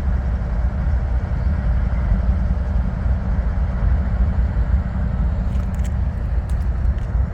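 Diesel freight locomotives running, the two GE units giving a steady, deep engine rumble.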